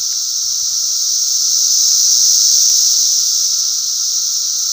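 Chorus of 17-year periodical cicadas: a loud, continuous high-pitched drone that swells slightly and eases off.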